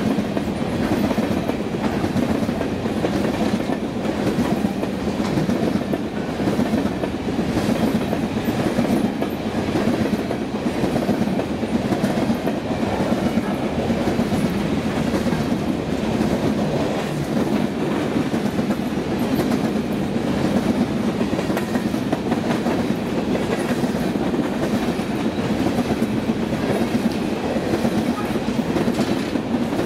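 Freight train cars rolling steadily past, wheels clicking over the rail joints in a continuous clickety-clack.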